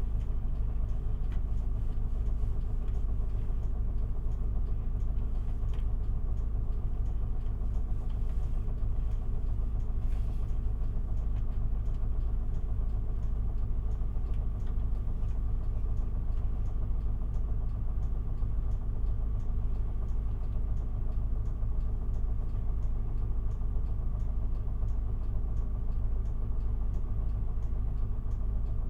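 Inside the cabin of an Isuzu Erga city bus, its four-cylinder turbo-diesel engine idles with a steady, unchanging low rumble.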